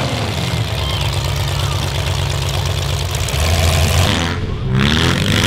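Demolition derby car engines running, with a deeper, stronger engine note from about three seconds in.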